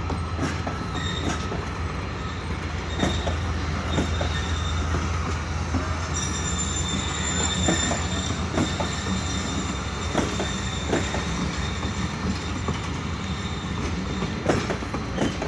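Passenger coaches of a departing express train rolling past: a steady low rumble with irregular clicks and clanks of wheels over rail joints. A faint high wheel squeal comes in from about six seconds in.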